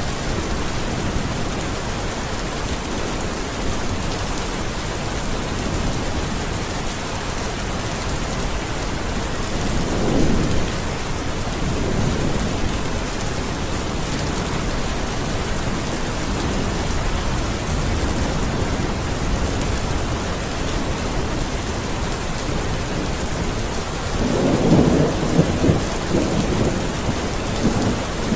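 Steady rain falling, with thunder rumbling twice: once about ten seconds in and again, louder, near the end.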